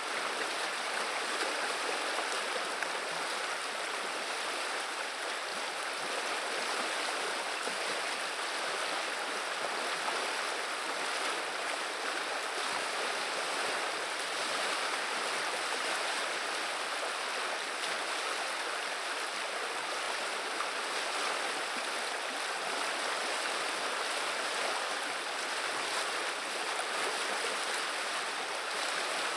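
River water running and babbling over its bed, a steady, even rush with no breaks.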